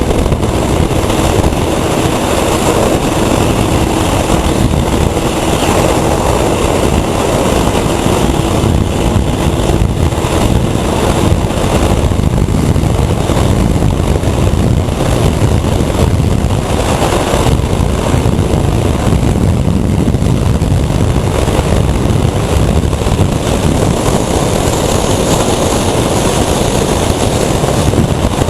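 Heavy wind rush over the microphone with a motorcycle engine running at highway speed, steady and loud. In the first ten seconds or so a faint steady engine note shows through the wind.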